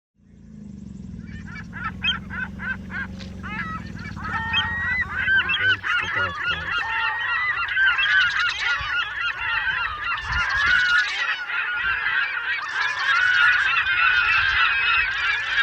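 A flock of geese honking, with many short calls overlapping and growing louder after the first few seconds.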